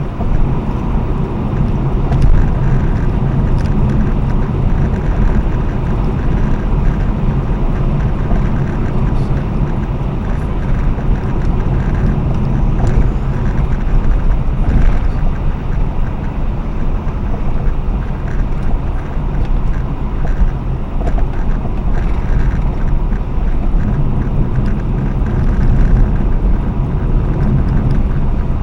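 R55 BMW Mini on the move: steady road and running noise with wind on the microphone, and now and then a faint knock from the front suspension. The owner has found nothing loose after replacing springs, shocks, links, ball joints, tie rod ends and drive shafts.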